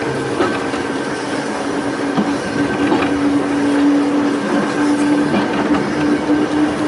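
Volks Electric Railway electric car running along its narrow-gauge track, with a steady electric hum that strengthens about two seconds in and a few clicks of the wheels over the rails.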